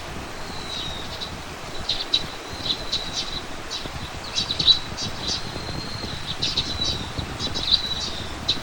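Small birds chirping and calling, with quick clusters of high chirps and a few drawn-out thin whistles, over a steady low rumble.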